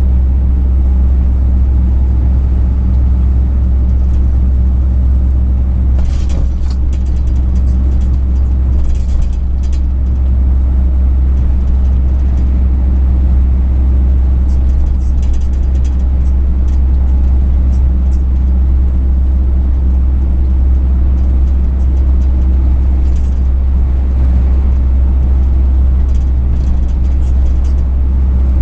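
Truck engine and road noise heard from inside the cab: a steady low drone with no change in pitch, with a few faint ticks and rattles about six to ten seconds in.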